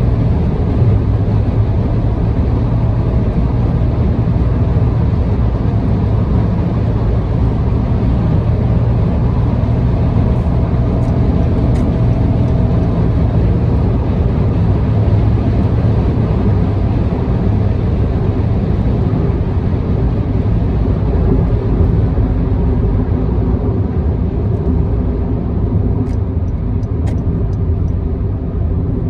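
Steady car road noise at expressway cruising speed: a deep tyre and engine drone that holds even throughout.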